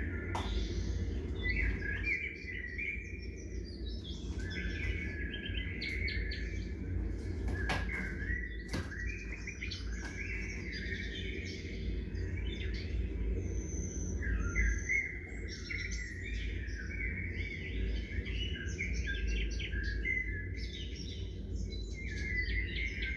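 Several small songbirds chirping and twittering over a steady low rumble, with a few sharp clicks about eight seconds in.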